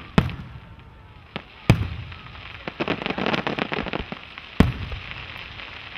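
Aerial fireworks shells bursting with three loud booms, the first near the start and the last about four and a half seconds in. In the middle, about a second and a half of rapid crackling from crackle effects.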